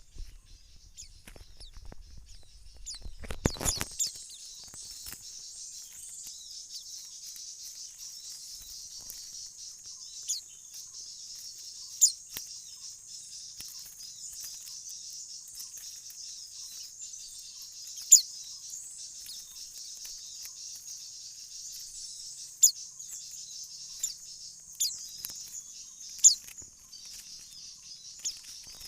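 Forest ambience: a steady, high-pitched insect buzz throughout, with short, sharp bird chirps every few seconds. There is a brief rustle of handling about three seconds in.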